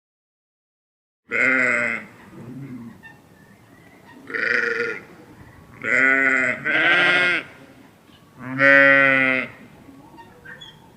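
Farm animal bleating: five loud calls about a second long each, the first about a second in, two of them back to back and one with a quavering tremble.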